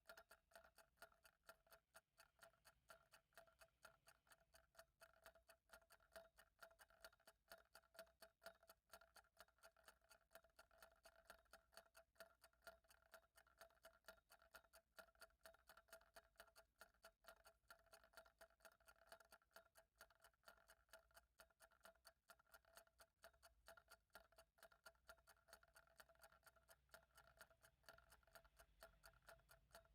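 Faint, even clock ticking, a rapid regular tick that does not change.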